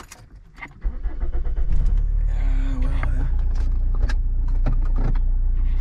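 Car engine starting about a second in, then running at a steady idle with a low hum, heard from inside the cabin.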